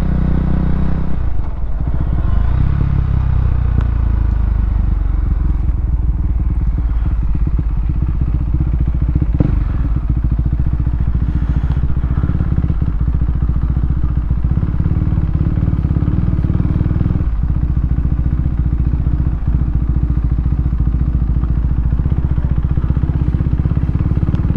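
KTM Duke 390's single-cylinder engine running through an aftermarket exhaust with the baffle removed. The engine note shifts in pitch a few seconds in, then runs steady.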